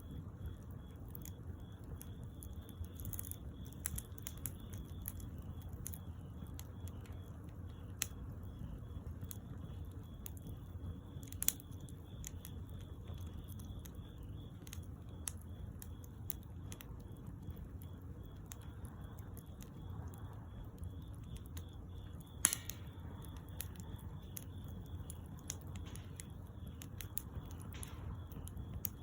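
Wood fire crackling, with irregular sharp pops over a low rumble. The two loudest pops come about eleven and twenty-two seconds in.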